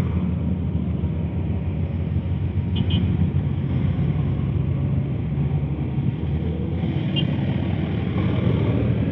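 Heavy truck's diesel engine running steadily at low revs, a deep hum that rises and falls slightly. Two brief faint high squeaks come about three and seven seconds in.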